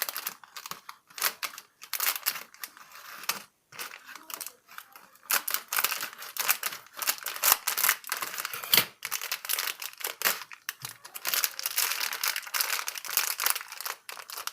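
Thin plastic bag of Lego parts crinkling and rustling in irregular bursts as it is handled and torn open, with a few sharper crackles in the middle.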